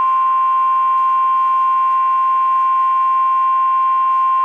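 NOAA Weather Radio warning alarm tone: one steady, unbroken single-pitched tone of about 1050 Hz. It signals that a warning message is about to be broadcast.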